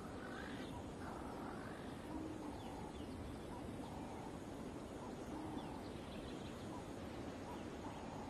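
Faint bird calls, short chirps repeating every second or so, over a steady background hiss of dry bush.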